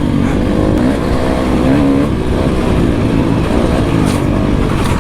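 Dirt bike engine running under throttle, its pitch wavering up and down as the rider works the throttle.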